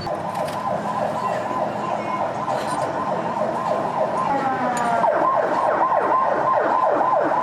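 Emergency vehicle siren sounding in a rapid, repeating falling sweep, joined about four seconds in by a second siren tone, growing louder.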